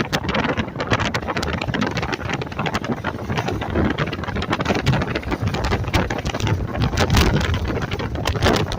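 A car driving, with steady road noise and gusty wind buffeting the microphone in many short crackling bursts.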